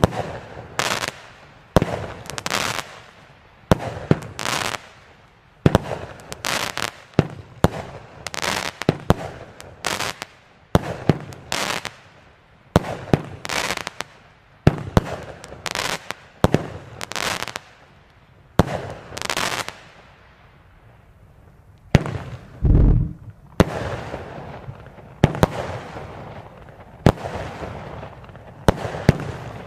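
Multi-shot firework cake firing shot after shot, about one or two a second, each a sharp bang trailed by hissing, crackling bursts. After a short lull, one deep boom comes about 22 seconds in, and the shots start again.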